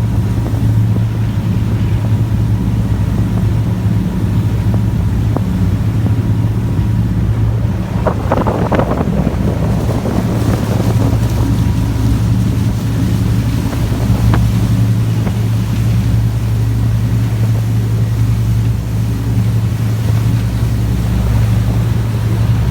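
A boat's engine drones steadily, with a brief louder rush of noise about eight seconds in.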